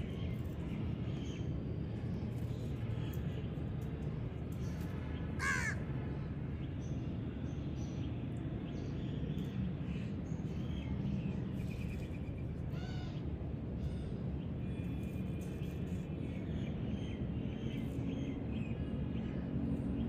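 A bird gives one harsh caw about five and a half seconds in and a fainter one near thirteen seconds, over a steady low background rumble.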